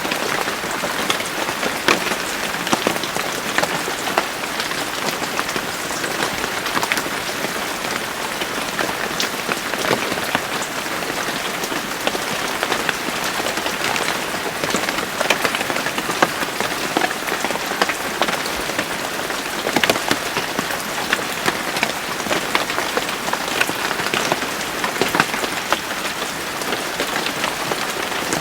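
Steady rain falling, an even hiss with many distinct drops striking close by.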